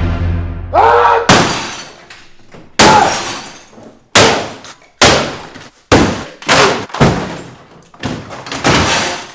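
Background music stops about a second in, then a series of about eight hard smashing blows, each sharp hit trailing off with a ringing or crunching decay: an object being crushed and broken.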